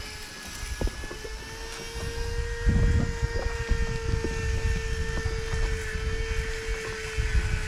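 A steady mechanical hum at one pitch, with low, uneven gusts of wind buffeting the microphone that grow stronger about two and a half seconds in.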